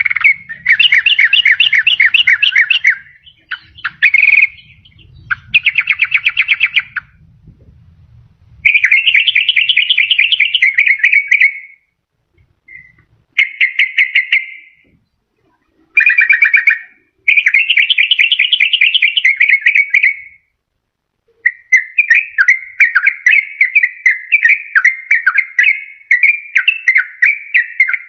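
Yellow-vented bulbul (trucukan) singing in bouts of fast, bubbling repeated notes, each bout lasting a couple of seconds with short pauses between. Near the end the song turns into a long, unbroken run of quick notes. This is the kind of call used to lure wild trucukan or to set off a quiet caged bird.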